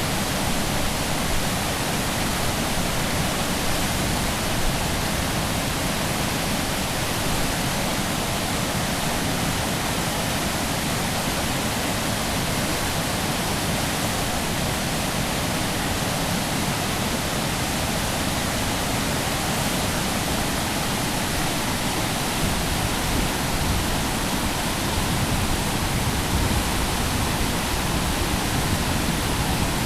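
Steady rush of the flooded Calapooia River, high fast water giving an even, unbroken roar.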